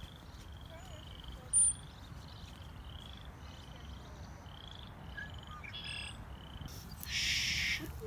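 A frog calling over and over in short, buzzy, slightly rising trills, about two a second. A single sharp high chirp comes about one and a half seconds in, and a brief rush of hiss near the end is louder than the calls.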